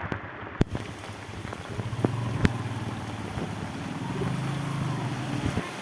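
Steady rain with a few sharp knocks, likely drops striking close to the microphone. A low vehicle engine hum comes in around the middle and again near the end.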